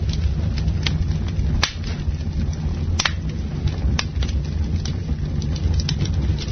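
Campfire burning: a steady low rumble from the flames with sharp crackling pops from the wood every second or so, the strongest about three and four seconds in.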